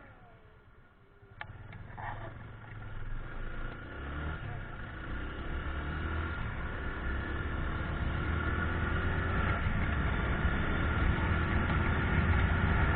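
Motorcycle engine running and steadily getting louder over several seconds as the bike gets under way, with a sharp click about a second and a half in.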